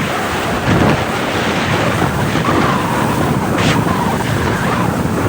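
Wind buffeting the microphone and water rushing past on a moving jet ski, a loud steady roar, with a brief splash of spray about three and a half seconds in.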